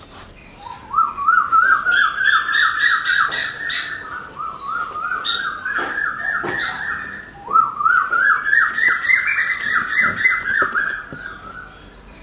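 A bird calling in three long runs of quick, rising notes, several notes a second, each run climbing gradually in pitch before it breaks off.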